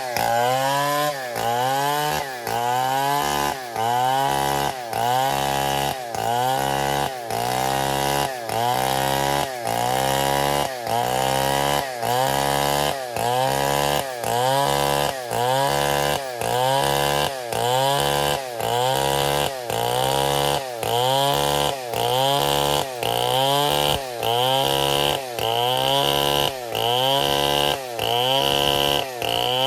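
Stihl 070 two-stroke chainsaw running at high revs while cutting wood, its engine pitch dipping and climbing back about once a second as the load comes and goes.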